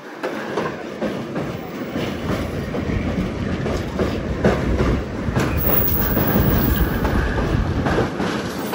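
Passenger train running slowly on the track, its wheels clicking and knocking over the rail joints with a continuous rumble. The sound rises sharply at the start.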